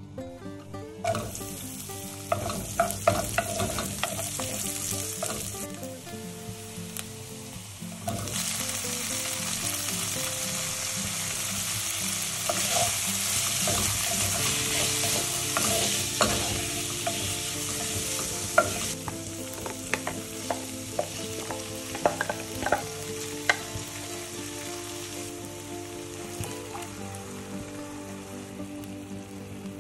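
Cumin seeds, onions and paneer cubes sizzling in hot oil, stirred with a wooden spatula that clicks and scrapes against the pan. The sizzle starts about a second in, grows louder about eight seconds in and eases off after about nineteen seconds.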